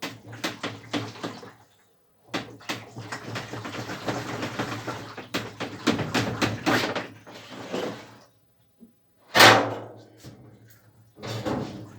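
Clatter and knocks of parts and tools being handled while a washing machine is taken apart, with a rasping scrape lasting about three seconds and one heavy thud a little past the middle.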